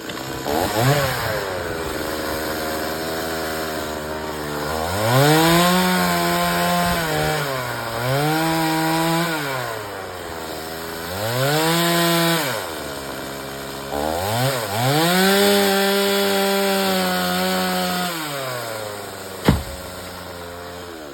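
Chainsaw idling, then opened up to full throttle and eased back about four times, each burst lasting a couple of seconds, as it cuts wood. A single sharp crack comes near the end.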